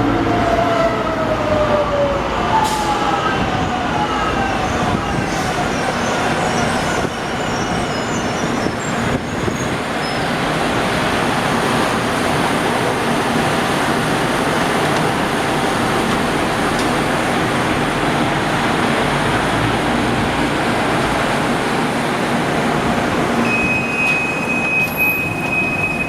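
LA Metro Green Line light-rail train running: an electric motor whine falls in pitch over the first few seconds, then a steady rumble and rolling noise. A thin steady tone sounds near the end.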